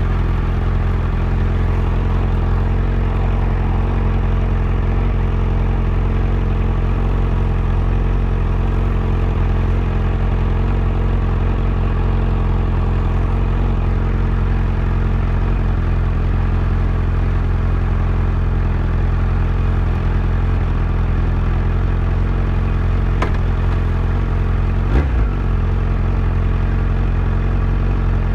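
Yamaha FZ1's inline-four engine running at a steady, unchanging engine speed, with a short click and then a brief low knock near the end.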